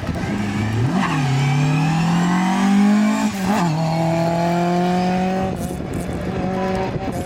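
Rally car accelerating hard, its engine note climbing with two quick upshifts about one and three and a half seconds in, then holding a steady pitch before dropping lower near the end.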